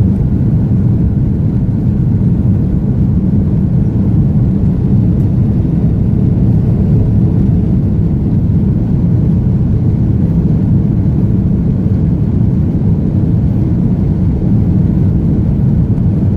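Jet airliner's engines at take-off thrust heard from inside the passenger cabin: a loud, steady low rumble that does not change through the take-off.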